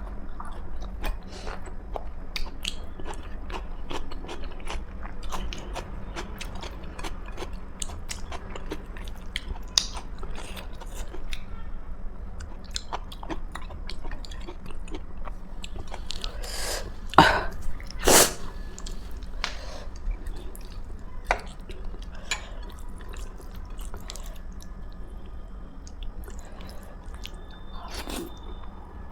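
Close-up chewing and wet mouth sounds of a person eating, with many small clicks and smacks. Two louder sharp knocks come about seventeen and eighteen seconds in.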